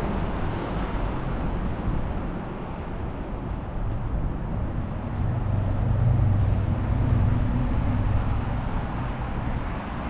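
City street traffic: steady road noise with a low rumble, and a passing vehicle's engine hum swelling about halfway through and fading near the end.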